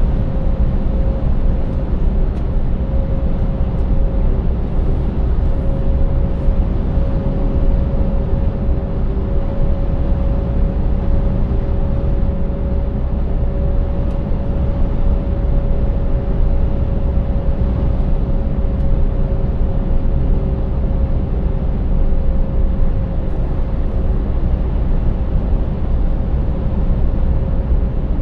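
Scania 590S truck's 16-litre V8 diesel running steadily under way, a constant low rumble with road and tyre noise and a steady hum that holds one pitch throughout.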